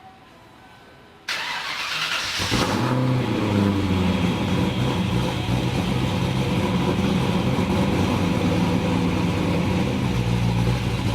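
Big-cam 306 V8 of a 1994 Ford Mustang GT cranking and firing up about a second in, then idling steadily through its new Pypes M80 catback exhaust.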